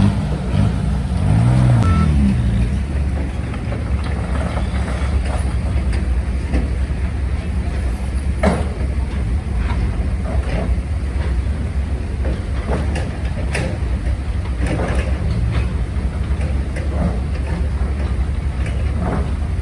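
Heavy construction machinery's diesel engine running with a deep steady rumble, revving up and back down in the first couple of seconds, with scattered sharp knocks throughout.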